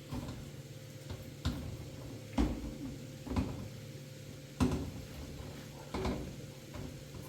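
A series of separate knocks or thumps, about six spaced a second or so apart, over a steady low hum.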